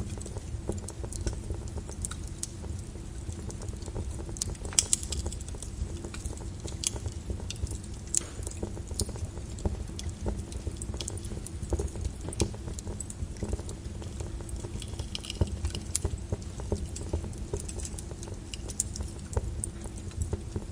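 Flowing lava: irregular crackling and glassy clinks of cooling crust breaking up over a steady low rumble.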